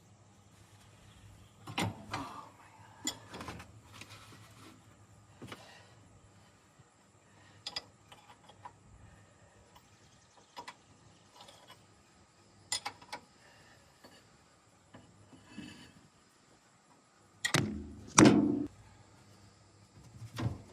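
Scattered clanks and knocks of metal tools and parts being handled on the dozer, with two louder knocks close together near the end.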